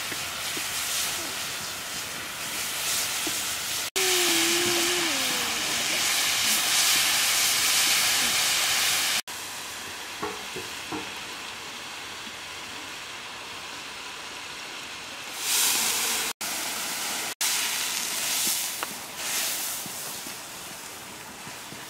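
Goose meat frying in a large wok over an open wood fire, a steady high sizzle as it is stirred with a wooden spatula. The sizzle jumps up and down in level at several abrupt cuts. A short wavering tone sounds about four seconds in.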